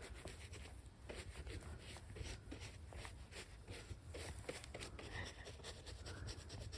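Small brush scrubbing soil off a freshly picked porcini mushroom: faint, quick scratchy strokes, one after another.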